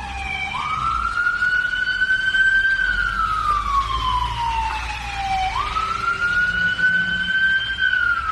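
Siren of a Scania P360 fire engine on an emergency run, wailing: the pitch jumps up quickly twice, about five seconds apart, then climbs a little and falls slowly, with the truck's engine rumbling underneath.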